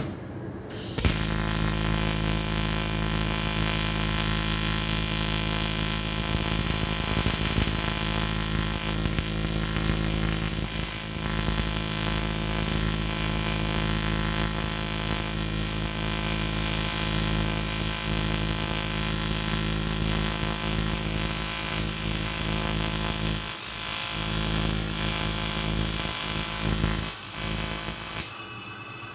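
AC TIG welding arc on an aluminium motorcycle cylinder block: a steady electrical buzz with a hiss on top. The arc strikes about a second in, dips briefly twice near the end, and cuts off shortly before the end.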